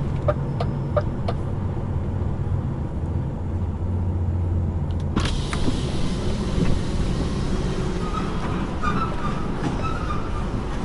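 Lorry engine running with a steady low hum while the truck drives along, with a ticking about three times a second during the first second and a half. About five seconds in, a broad hiss rises suddenly on top of the engine and stays.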